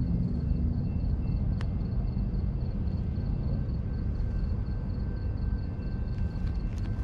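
Steady low rumble of a passing train, with faint steady high-pitched tones above it and a sharp click about a second and a half in.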